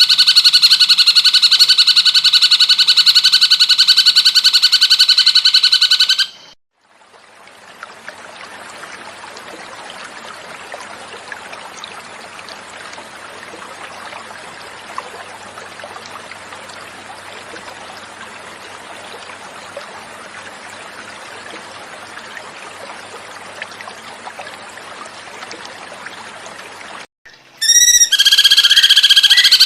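Cucak cungkok call: a loud, rapid, pulsing buzzy trill held steadily, which cuts off about six seconds in. Then about twenty seconds of quieter flowing water, a steady hiss. The call starts again near the end.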